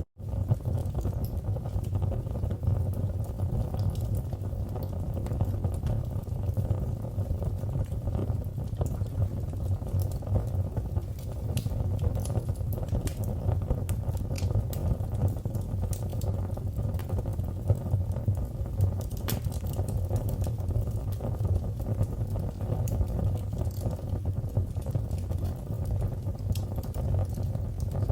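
Wood fire burning in a fireplace: a steady low rumble of flames with scattered small crackles and pops from the burning logs. The sound drops out for an instant at the very start.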